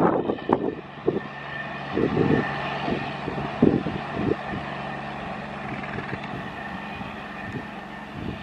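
Rumble and clatter of an express passenger train's coach wheels on the rails, fading as its last coach runs away after passing at speed, with irregular thumps through the first few seconds.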